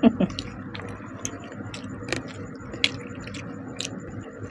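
Close-up eating sounds of fish curry and rice: soft wet squishing, smacking and chewing, with small irregular clicks.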